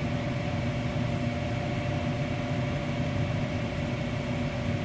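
Gas furnace fan motor running steadily at the start of a heating cycle, before the igniter and gas come on: a steady hum with a faint whine.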